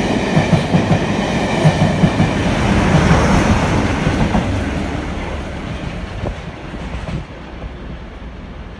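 Passenger train of carmine-and-cream coaches passing close by, its wheels clattering over the rail joints in a steady beat about twice a second. A diesel locomotive on the rear of the train goes past about three to four seconds in, and the sound then fades as the train draws away.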